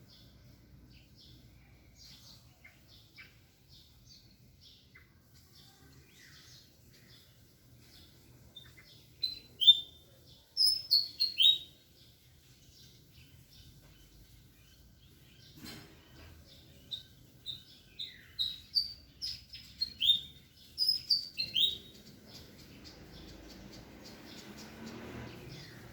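Small birds chirping steadily, with two loud runs of sharp, quickly falling calls, about ten seconds in and again around twenty seconds in. A single click comes near the middle, and a soft low rushing noise builds toward the end.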